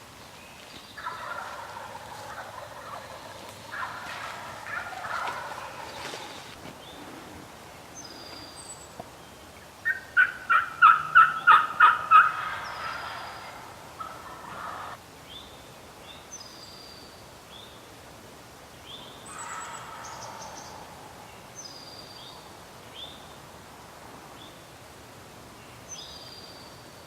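A wild turkey tom gobbling once about ten seconds in: a rapid rattling string of notes lasting about two seconds, the loudest sound here. Small songbirds give short, high, falling chirps again and again.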